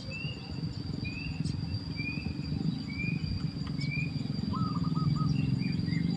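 Short bird chirps repeating about once a second, over a steady high insect-like drone and a low rumble. About four and a half seconds in, a quick trilled call of several notes.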